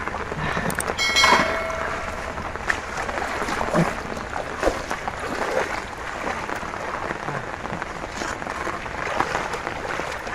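Steady crackling patter of rain on the ground and water, with scattered small splashes and a brief sharp clatter with a ringing tone about a second in.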